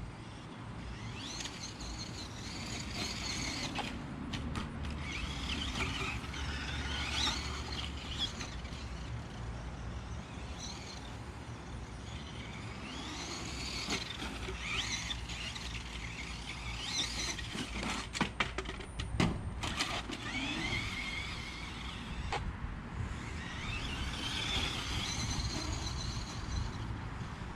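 Brushless electric motor of a radio-controlled Tamiya dump truck (Dynamite Tazer 3000kV) whining as it speeds up and slows down over and over, its pitch rising and falling. A few sharp knocks come about two-thirds of the way through.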